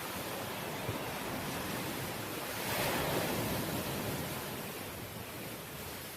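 Ocean waves breaking on the shore, one wave swelling to its loudest about three seconds in and washing back out, over a steady rush of surf.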